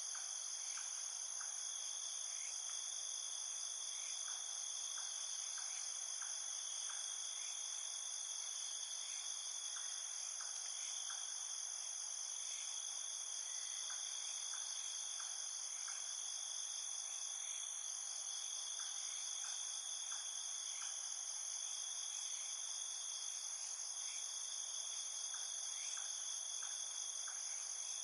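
A steady, high-pitched chorus of insects, several trilling voices layered at once, with faint short chirps scattered through it.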